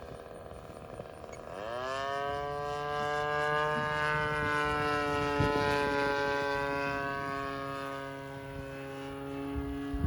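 The 20cc gas engine of a Pilot RC Laser model airplane is throttled up about one and a half seconds in. Its pitch sweeps sharply up and then holds at a high steady run, sagging slightly near the end.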